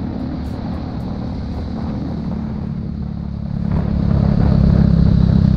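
A road vehicle's engine running loudly with a deep, low rumble, getting louder about two-thirds of the way through: a racket.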